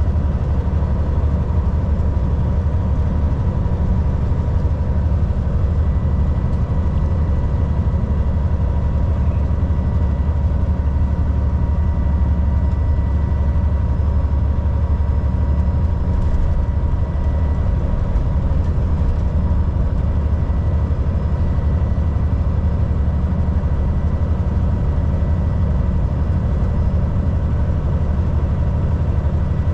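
Volvo VNL 760 semi truck's diesel engine running steadily at cruise, a deep constant drone with road noise and a faint steady whine over it.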